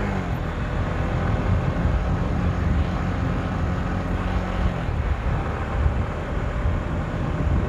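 Motorcycle engine running while riding, under heavy wind rush on the microphone. Its note drops just as the sound begins, holds steady until about two-thirds through, then is lost in the wind noise.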